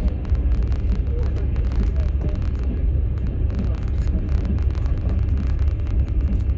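Interior rumble of a moving passenger train heard inside a platzkart sleeping car: a steady low rolling drone from the wheels and bogies with faint rattles and clicks over it.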